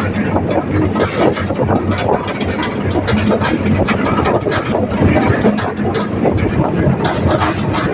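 Tractor engine running steadily, heard from aboard the tractor, a low hum with continuous clatter and rattle over it.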